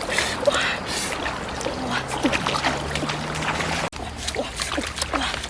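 Water splashing and sloshing with many small clicks and crackles, as from hands wading and groping through shallow water, with faint scraps of voice.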